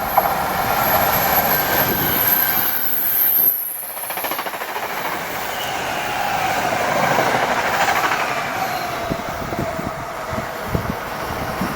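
Passenger train running past on the rails, a steady rumbling rush with a thin high whine that slides down in pitch. The sound drops off briefly about three and a half seconds in, then carries on.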